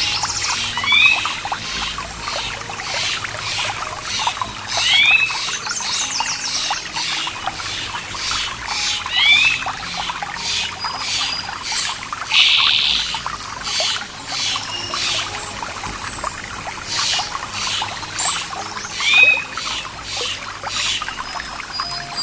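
Running water trickling and splashing over rocks, with a songbird's short curved chirp call repeated several times a few seconds apart.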